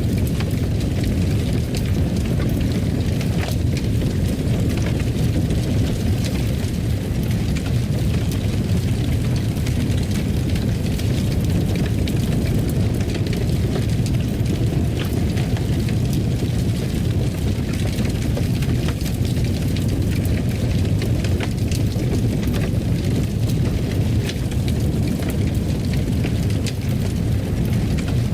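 Fireplace fire burning: a steady low rumble of flames with scattered small crackles and pops throughout.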